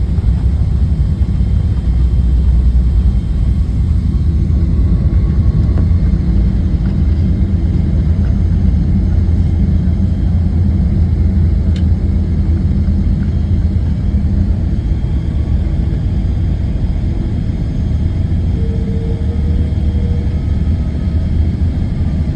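Airliner cabin noise during landing: a loud, steady low rumble that eases slightly in the second half, with a brief faint tone about nineteen seconds in.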